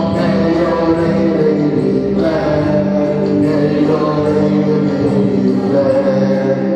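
Church worship singing: voices singing a gospel chorus together in long held notes.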